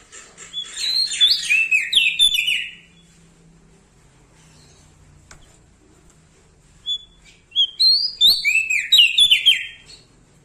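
Prenjak daun from Lombok singing two loud bursts of rapid, warbled phrases, each two to three seconds long, the first about half a second in and the second about seven seconds in. Quick ticking notes lead into the first burst.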